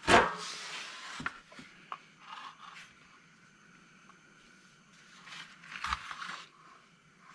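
Tools and small metal parts being handled while a lawnmower is reassembled: a sharp knock at the start, then light clicks and scrapes, and a short clatter with a dull thump about six seconds in.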